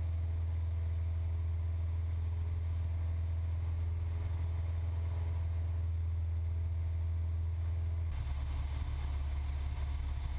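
Steady drone of a Cessna 172's piston engine and propeller in flight. About eight seconds in, the drone turns rougher and noisier.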